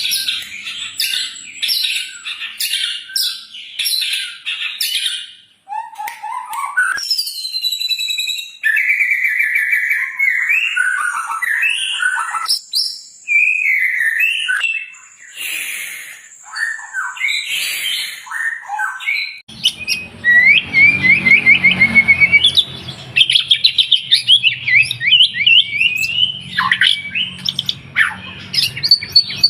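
White-rumped shama (murai batu) singing a long, varied song of gliding whistles, trills and chattering phrases. About two-thirds of the way through, a low hum comes in underneath and the song turns to fast runs of short repeated notes.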